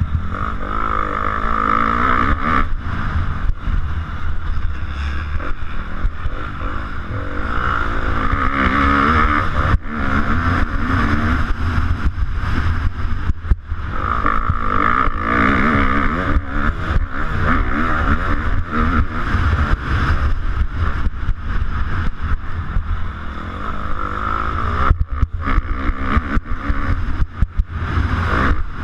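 250cc motocross bike engine heard from an onboard action camera, revving up and falling back over and over as the rider opens and closes the throttle around the track.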